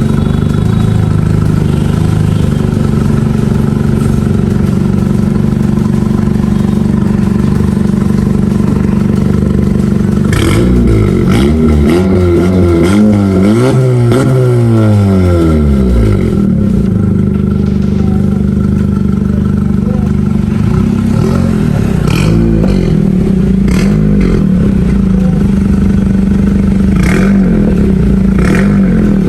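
Car engine idling steadily, then revved up and down several times about ten seconds in before settling back to idle. A few short knocks come later.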